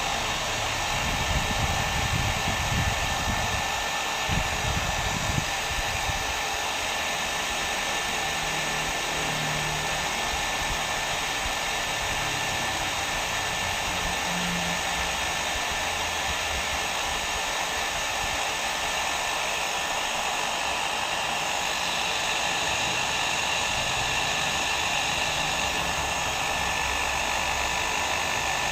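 Hair dryer blowing steadily: a continuous even rush of air with a faint steady whine in it. Low irregular rumbles come through in the first few seconds.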